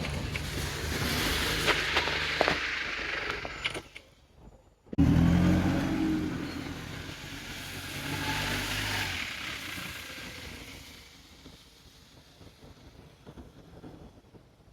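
Vehicle engines passing: one engine runs steadily and then breaks off about four seconds in. A louder engine starts abruptly about a second later and fades away over the next several seconds.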